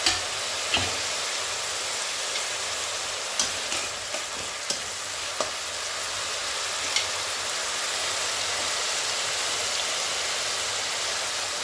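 Onion and garlic paste frying in mustard oil in a kadai: a steady high sizzle, with a few sharp clicks in the first half.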